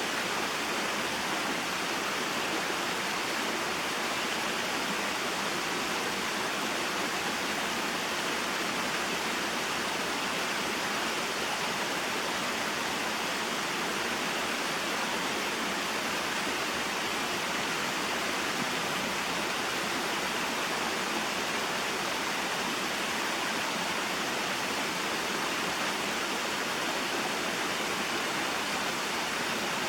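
A small waterfall and mountain stream: a steady, even rush of falling and flowing water.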